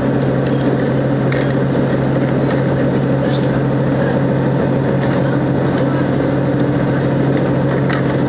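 Train running, heard from inside the carriage: a steady loud drone with a low hum, and scattered short clicks and knocks from the wheels on the track.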